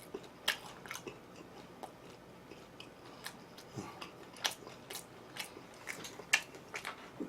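Close-miked mouth sounds of a person biting and chewing crispy fried chicken (kkanpunggi), with short crisp crunches and wet clicks a few times a second.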